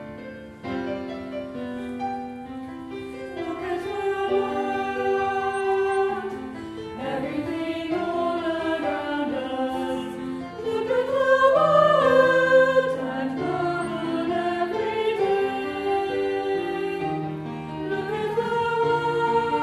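A choir singing a hymn with keyboard accompaniment, the voices swelling loudest about halfway through.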